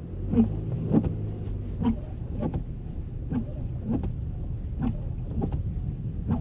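Car in motion heard from inside the cabin: a steady low road and engine rumble, with short knocks in pairs that repeat about every second and a half.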